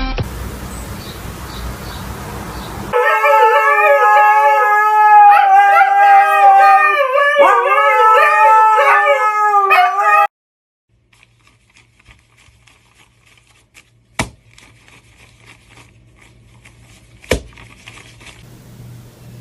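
Husky howling in long, wavering calls that slide up and down in pitch, starting about three seconds in and cutting off suddenly around ten seconds. Before it there is a steady hiss; after it a quiet stretch with two sharp clicks.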